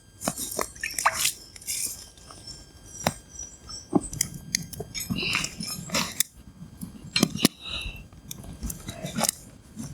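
Frying potato slices being stirred and turned in a pan with a hand-carved wooden stirrer: irregular scraping with sharp clicks and knocks against the pan.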